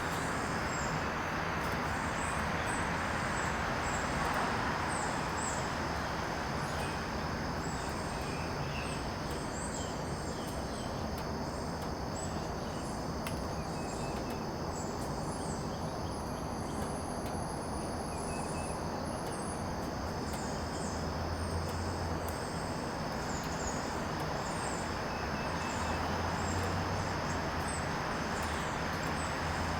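Outdoor garden ambience: a steady high-pitched insect drone with scattered short bird chirps over a constant rushing background, and a low hum that swells a few times in the second half.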